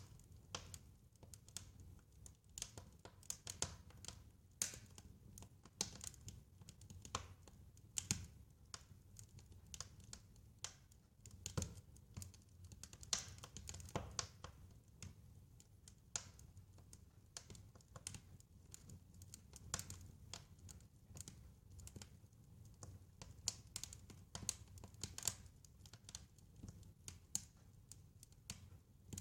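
Wood fire crackling, with many irregular sharp pops and snaps over a low steady rumble of flame.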